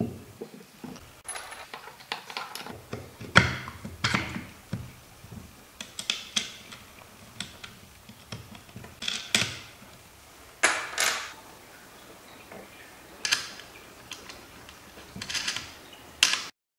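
Knocks, clicks and clatter of hard composite pump parts being handled and fitted together during a valve-seal replacement. The strokes come irregularly, one or two a second.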